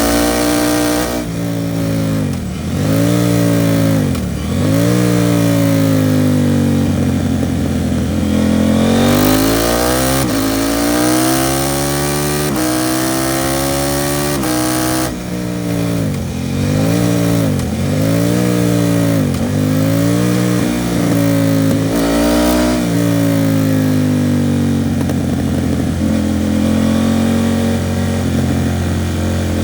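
KTM 790 Duke parallel-twin engine through an Arrow Pro Race titanium exhaust, heard while riding. About ten seconds in the revs climb in three steps, each cut short. After that the revs dip and rise sharply several times, and near the end the engine settles to a steadier, lower note.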